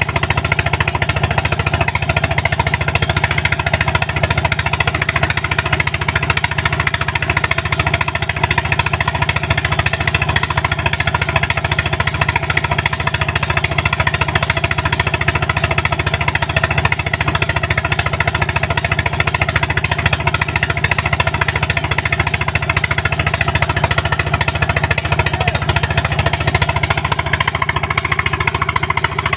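Engine of a sand-suction pump running steadily at constant speed, with a fast, even clatter and a spread of noise above it.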